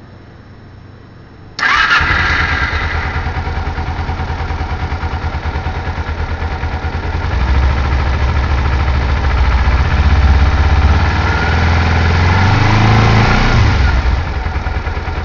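2008 Kawasaki Ninja 250 (EX250R) parallel-twin engine starting about one and a half seconds in and then running at idle, with a brief rise and fall in revs near the end.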